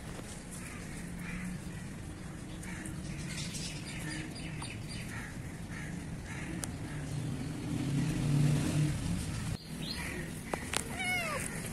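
Birds chirping over and over in the background, with steady outdoor ambience beneath. Near the end there is a short, falling, pitched call.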